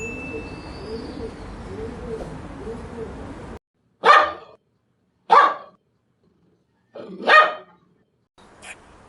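A dog barking: three short, loud barks spaced one to two seconds apart in the second half. Before them, a noisy stretch with low wavering sounds cuts off suddenly.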